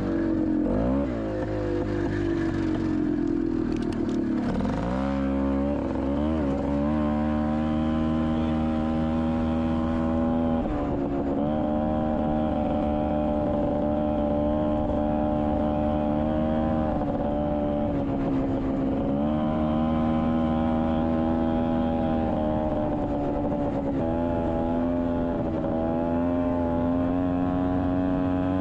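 Honda Odyssey FL250's rebuilt single-cylinder two-stroke engine running under load while riding. It drops in pitch over the first few seconds, revs up about five seconds in, then holds a fairly steady pitch with small dips and rises.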